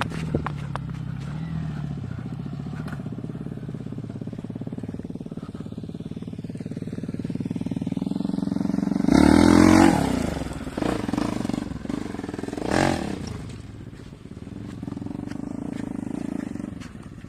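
Motorcycle engine running steadily on the move. About nine seconds in, an engine sound swells loud and then drops in pitch as it fades, and there is a shorter loud burst near thirteen seconds.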